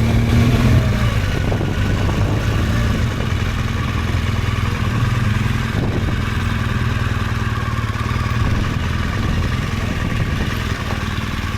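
BMW GS Adventure motorcycle's boxer-twin engine running steadily while riding, with a rush of wind over the microphone.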